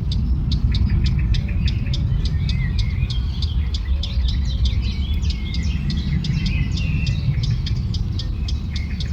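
Songbirds chirping and warbling, one repeating a short, sharp chirp about four times a second, over a steady low rumble.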